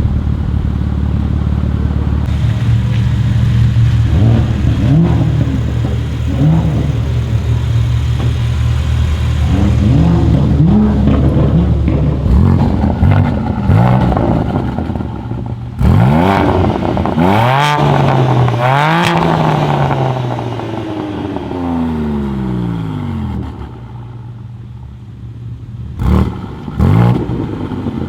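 BMW M3 G80 Competition's twin-turbo straight-six with an R44 Performance exhaust, idling and then blipped in a run of short revs. A high rev about two-thirds of the way through falls back to idle, and near the end a few sharp exhaust cracks ring out.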